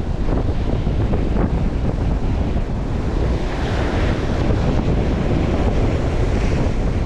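Strong onshore wind buffeting the microphone in steady loud gusts, over the wash of surf.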